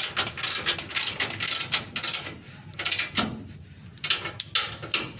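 Socket ratchet wrench clicking in short, irregular runs of strokes as bolts are tightened.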